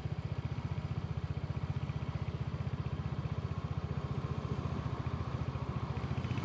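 Royal Enfield motorcycle engine running steadily at low revs, an even rapid pulse of exhaust beats.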